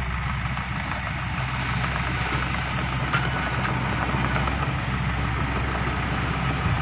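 Dump truck's diesel engine idling steadily.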